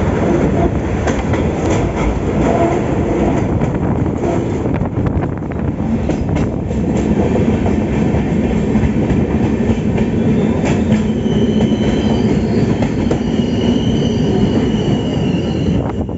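Passenger train running on the rails: a loud steady rumble with wheel clicks over the track joints, and a high wheel squeal setting in partway through.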